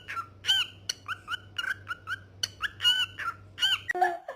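A parrot giving a rapid run of short, looping whistled chirps, about three a second.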